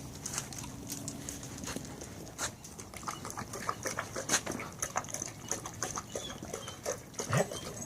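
Dogs moving about: many scattered clicks and taps, with a short rising dog sound about seven seconds in.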